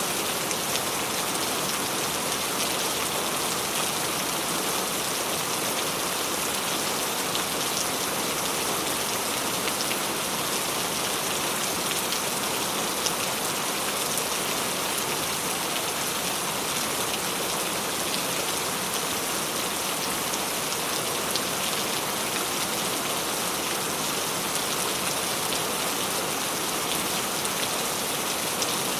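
Steady rain falling, an even hiss of drops with a few sharper, louder drop hits scattered through it.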